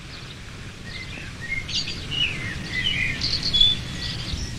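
Birds chirping outdoors: a run of short calls starting about a second in, over a steady low background rumble.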